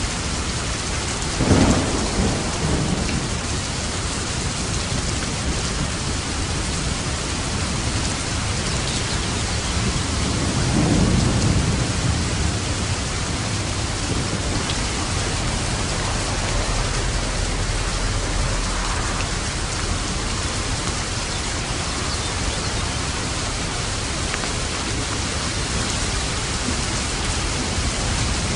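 Steady heavy rain with thunder: a sharp crack of thunder rolling off about a second and a half in, and a second, longer rumble around ten seconds in.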